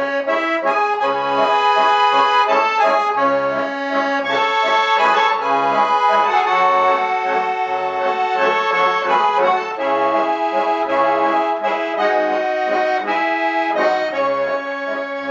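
Garmon (Russian button accordion) built by master Khoroshilov, playing an instrumental introduction: a melody over short, evenly repeated bass notes.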